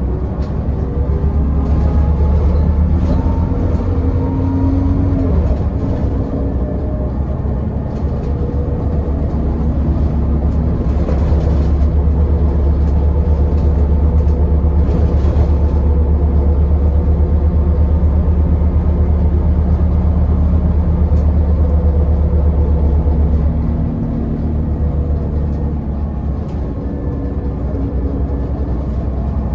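Scania L94UB bus's diesel engine running steadily while driving, with a deep drone and occasional brief rattles. It grows louder for a long stretch under load, then eases off about three-quarters of the way through.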